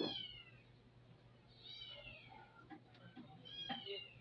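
Cat, probably a kitten, meowing three times in high, falling calls about two seconds apart, over a faint steady hum.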